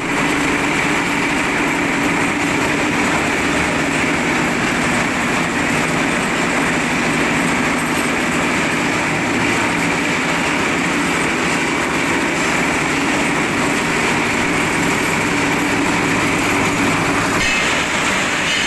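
Concrete mixer machine with hopper lift running, a loud, steady mechanical noise with an engine drone; the sound shifts a little near the end.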